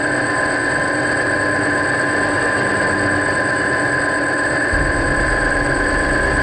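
DJI F550 hexacopter's six brushless motors and propellers running steadily, a constant whine heard through an action camera's waterproof housing fixed under the frame. A low rumble joins near the end.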